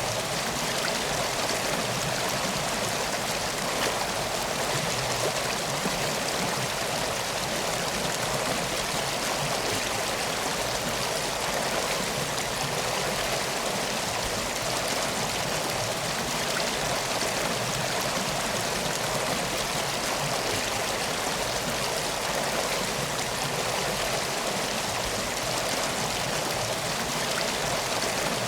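A river flowing steadily: an even, unbroken rush of water.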